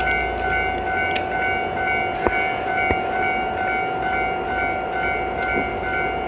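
Railway noise: a steady electrical hum with a continuous tone, and higher tones pulsing on and off at an even rhythm. There are two sharp clicks a couple of seconds in.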